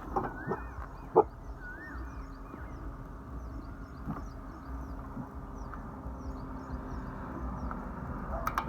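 Outdoor ambience: many short high chirps over a low steady rumble, with a few curved calls early on, a sharp knock about a second in and a few clicks near the end.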